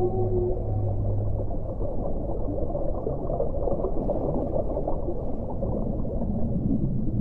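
Underwater ocean ambience: a low, rough rumbling and bubbling of water. In the first second or two a few held low tones fade out.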